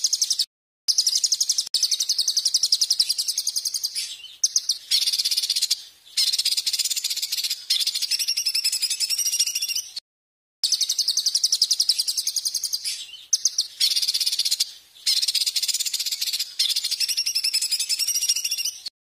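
A songbird's rapid, high-pitched trilling: fast churring notes run together in long bursts of a few seconds with brief breaks, the sequence starting over about halfway through.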